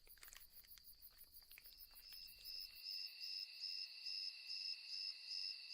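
Crickets chirping: a high, faint chirp pulsing about three times a second, with a second, lower steady trill joining about a second and a half in.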